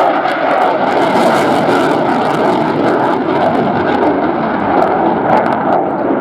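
RAF Eurofighter Typhoon jet flying its display, its two Eurojet EJ200 turbofans making a loud, steady noise with no clear tone.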